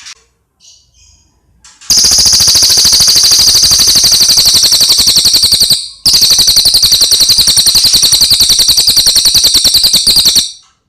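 A cililin songbird gives a few soft chirps, then two long, loud, very fast rattling trills, split by a brief pause.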